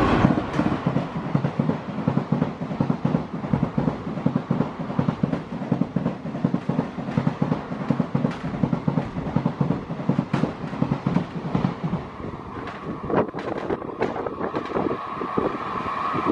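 Electric-hauled express passenger train passing at speed: a fast, rhythmic clatter of coach wheels over rail joints. The clatter thins out after about twelve seconds as the last coaches go by.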